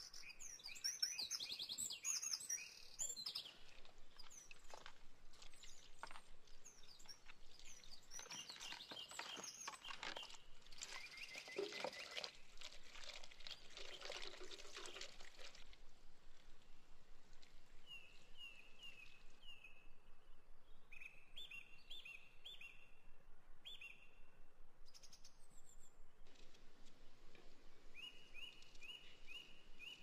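Wild birds chirping and singing, with short high notes repeated in quick series in the second half.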